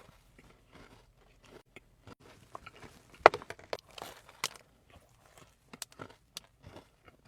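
Chewing a donut topped with mini M&M candies: soft chewing with scattered crunches of the candy shells, the sharpest a little over three seconds in.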